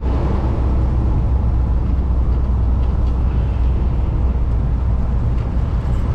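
Kenworth W900L semi truck driving on the highway: a steady low engine drone with continuous road noise over it.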